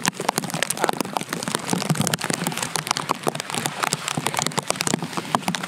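Rain falling close to the microphone: a dense, irregular patter of sharp drop hits, with no engine running.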